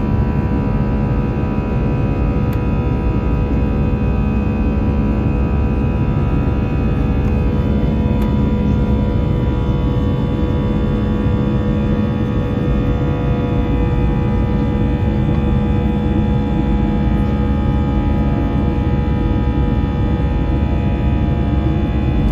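Jet airliner cabin during the climb after takeoff: the engines keep up a steady drone, a low rumble with several steady whining tones over it.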